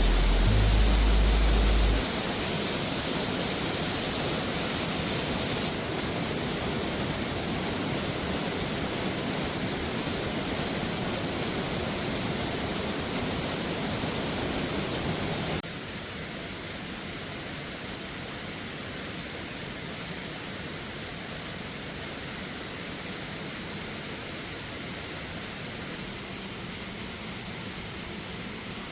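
Waterfall rushing: a steady, even noise of falling water that drops suddenly to a quieter level about halfway through.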